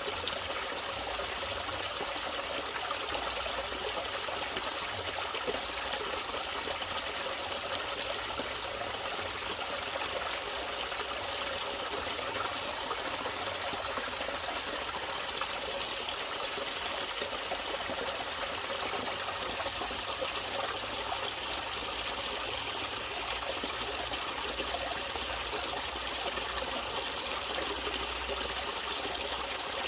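Natural running water trickling steadily, as from a small stream, with no break.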